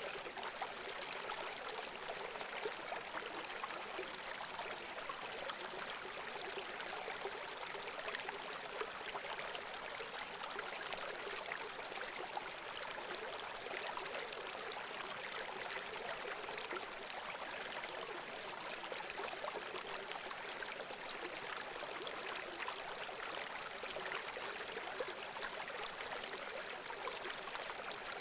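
Running water: a stream trickling and splashing steadily, with a fine crackle of small splashes and little low rumble.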